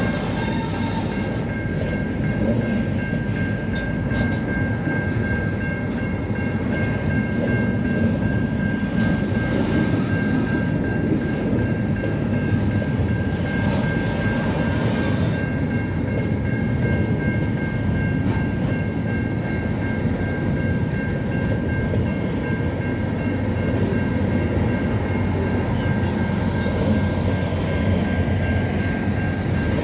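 Train running, a steady low rumble with a faint, steady high whine over it.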